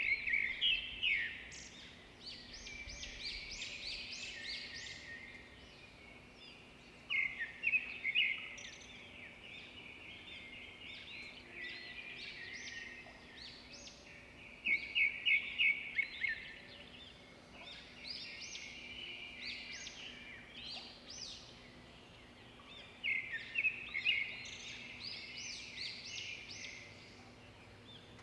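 Songbird singing: phrases of rapid high chirps and trills that come back about every seven or eight seconds, over a faint steady hum.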